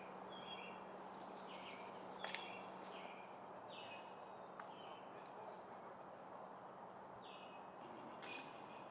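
Faint outdoor ambience: a bird giving short high chirps about once a second over a steady thin insect whine, with two faint clicks, the second one near the end.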